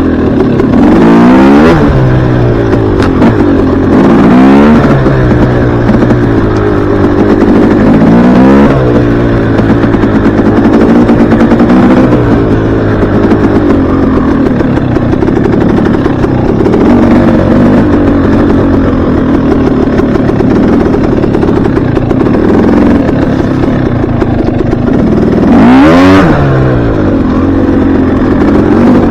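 Dirt bike engine running under throttle while being ridden, its pitch swinging up and down sharply about three times in the first nine seconds and once more near the end, with steadier running in between.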